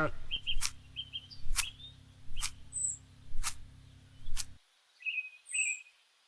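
Small birds chirping in short high calls, with sharp clicks about once a second over the first four and a half seconds. A low background hum cuts off suddenly about four and a half seconds in, leaving only a couple of chirps.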